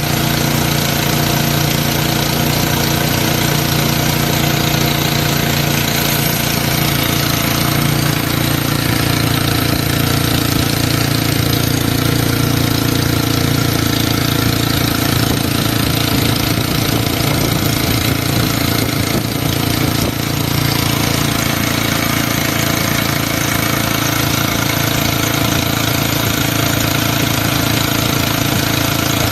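Suzuki Jimny JA11's turbocharged three-cylinder engine idling steadily.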